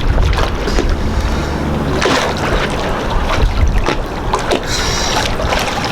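Water sloshing and splashing against a boat's hull, with wind rumbling on the microphone and scattered short knocks.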